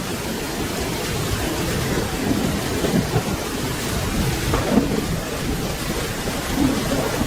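Steady rain falling, with a low rumble of thunder that swells and fades underneath it.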